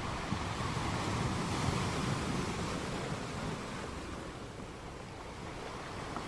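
Sea waves washing onto a shore, a steady rushing surf that swells about two seconds in and then eases off.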